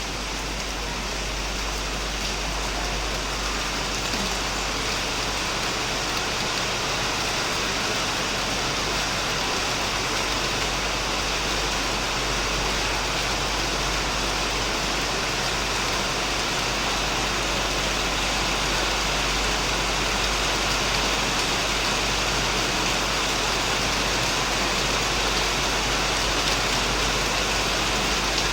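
Heavy rain falling steadily on a shed roof and plants, an even hiss with a low rumble underneath, growing slightly louder over the first half.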